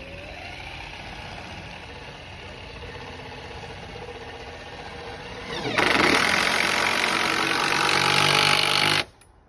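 Cordless power drill spinning up and running steadily, then much louder for about three seconds as it drives in a screw, stopping abruptly.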